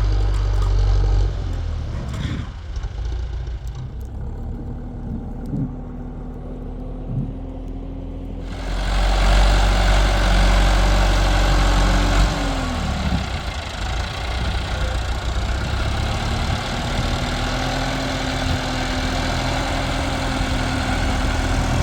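Tractor engine running steadily, growing suddenly louder and fuller about eight seconds in, as if working harder.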